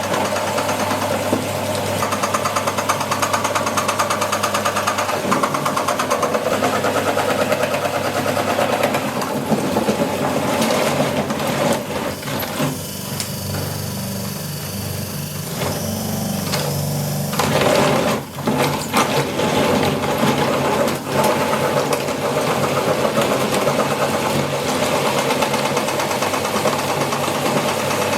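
Meat grinder's motor running steadily while grinding chicken. Midway it turns duller for a few seconds, then returns to its fuller, buzzier sound.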